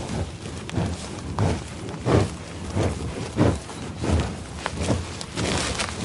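Heavy footfalls of a large animal moving along: regular low thuds, about three every two seconds.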